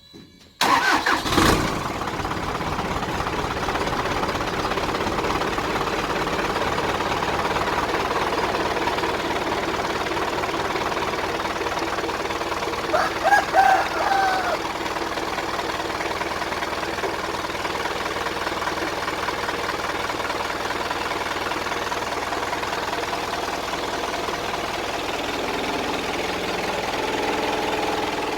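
Dump truck's diesel engine cranking and catching about half a second in on its newly fitted battery, then idling steadily. A brief warbling high tone sounds about 13 seconds in.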